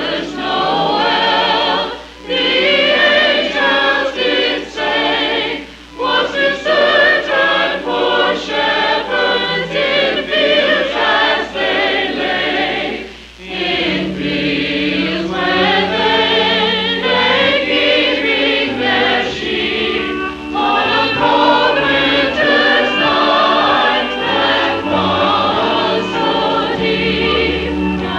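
Church chancel choir singing a Christmas cantata in parts, with a few short breaks between phrases.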